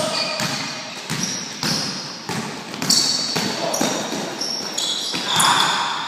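Basketball being bounced on a hard indoor court, a string of sharp bounces about every half second, each fading away. Short high squeaks come between them in the second half.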